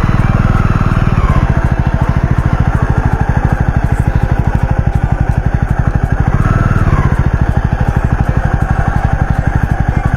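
Jawa 42 motorcycle's single-cylinder engine running under way, a steady rapid beat of firing pulses, with the engine note changing about a second in and again near seven seconds.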